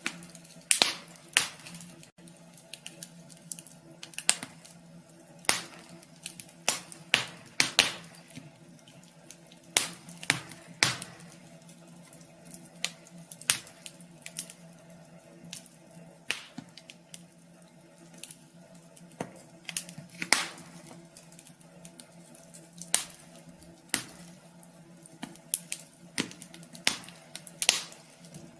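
Wood fire crackling in a wood stove: irregular sharp pops and snaps, a few louder than the rest, over a faint steady hum.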